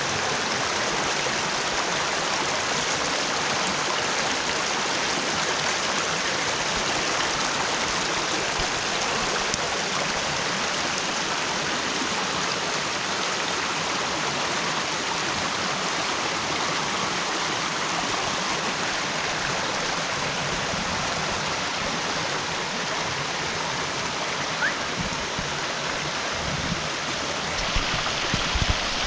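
Mountain stream rushing steadily over rocks, running full after heavy rain. A few soft knocks near the end.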